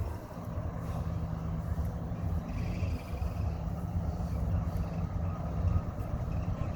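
A car engine running steadily at low revs, a deep rumble.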